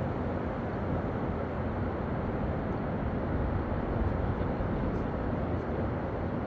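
Steady, even rumbling noise with no distinct events, its energy mostly in the low and middle range.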